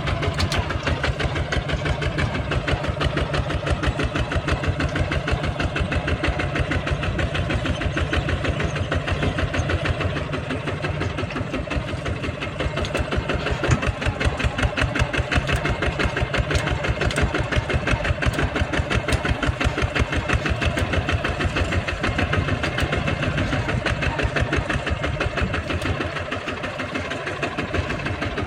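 Kubota tractor's diesel engine running steadily, a fast even chug of firing pulses, easing off a little twice.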